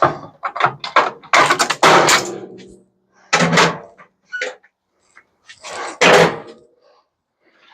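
Scrap metal being handled while an appliance is taken apart: a series of irregular clanks, knocks and scrapes, a few with a short metallic ring.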